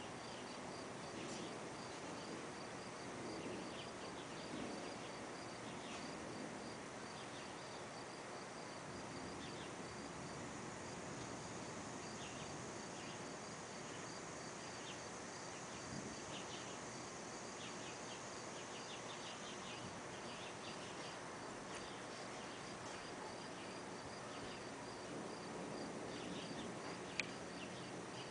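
Outdoor insect chorus: crickets chirping in a steady pulse of about three chirps a second, joined about ten seconds in by a high steady drone, with scattered short chirps over a low rushing background. A single sharp click sounds near the end.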